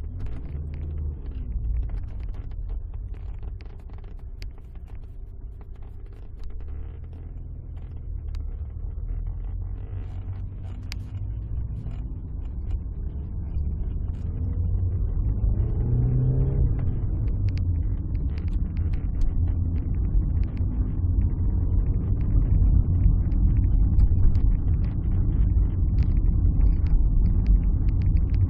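Alfa Romeo 156 being driven, with engine and road rumble. About halfway through the engine note rises as the car accelerates, and the running stays louder after that.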